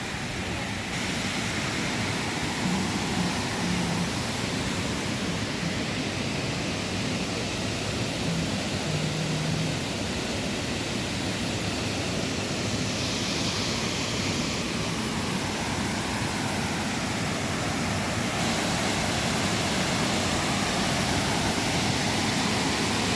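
Large waterfall's water rushing in a steady, dense wash of noise, with wind gusting on the microphone.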